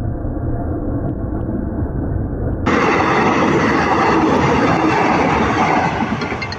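A train passing close by a level crossing: a loud, steady rush of wheel and engine noise. About two and a half seconds in, the sound abruptly turns brighter and louder.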